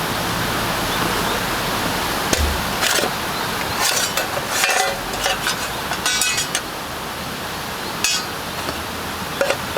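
Scattered light clinks and clatters of camp cooking gear being handled, over a steady hiss.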